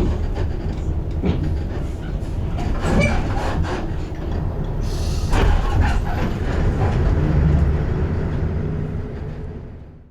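Inside a moving city bus: steady low engine and road rumble with rattling and knocking from the bus body. It fades near the end and cuts off abruptly.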